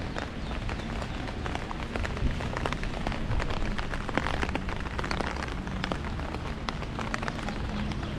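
Heavy rain striking an umbrella overhead: many separate sharp drop hits over a steady hiss.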